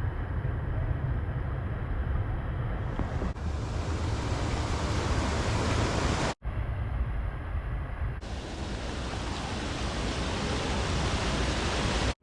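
Steady rushing of a mountain stream and waterfall. It cuts out abruptly for an instant about six seconds in.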